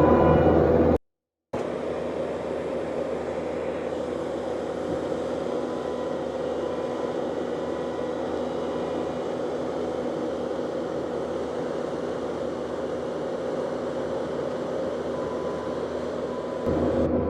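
Diesel engine of working heavy equipment running steadily under a light load. It cuts out abruptly about a second in and comes back at a lower level, swelling louder near the end.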